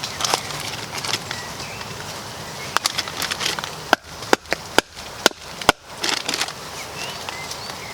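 Kindling being split from a piece of damp wood: a quick run of sharp wooden knocks and cracks, about eight of them through the middle of the stretch.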